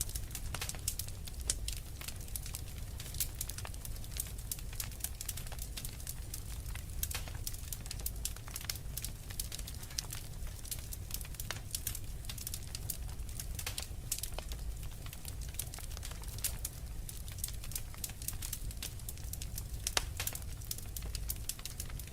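Wood fire crackling: dense, irregular pops and snaps over a low, steady rumble, with a sharper crack about twenty seconds in.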